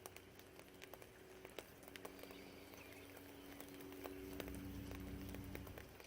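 Raindrops dripping in scattered, irregular taps, with the low hum of a distant vehicle passing that swells from about two seconds in and fades away near the end.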